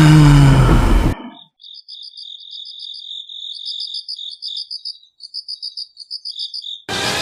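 Loud storm noise cuts off abruptly about a second in, giving way to crickets chirping in quick pulsed trills with short gaps. Music comes in near the end.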